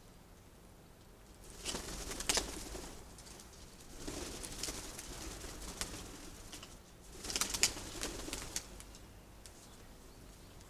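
Pigeon wings flapping and clattering in three noisy bursts, a few seconds apart.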